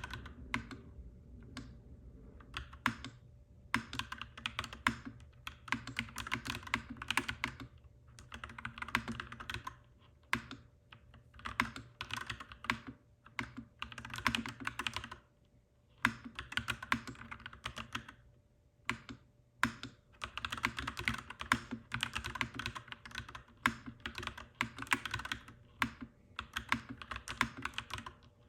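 Clacky mechanical keyboard typing in bursts of rapid keystrokes, with short pauses between runs, over a faint steady low hum.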